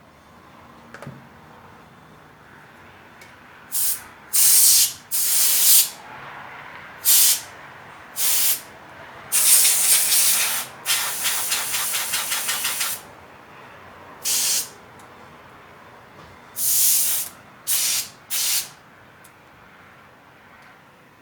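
Aerosol can spraying in about ten short hissing bursts, with a longer fluttering, sputtering spray near the middle.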